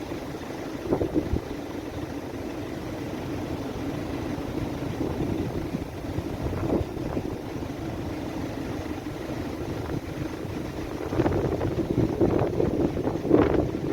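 Strong gusty bora wind buffeting the microphone in a steady rumble, with harder gusts surging near the end.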